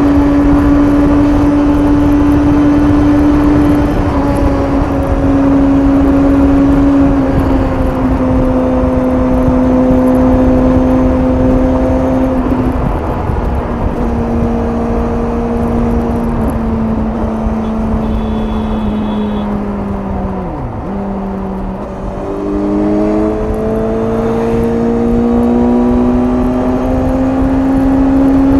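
Suzuki GSX-S750's inline-four engine running through its stock exhaust on the highway, its pitch easing slowly downward as the bike slows. About 21 seconds in the revs drop sharply and briefly, then climb steadily again as the bike accelerates.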